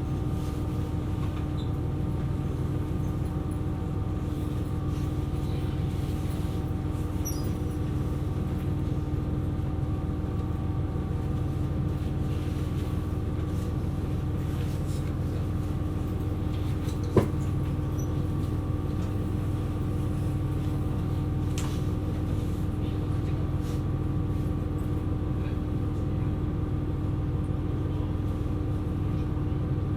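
KiHa 127 series diesel railcar running, heard from inside the car: a steady low rumble with a constant engine and drive note. A single sharp click sounds about 17 seconds in.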